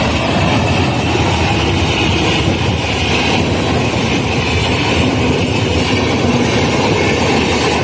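Passenger trains running on the rails, heard from a moving coach: a steady rumble and wheel noise as another train runs alongside on the next track.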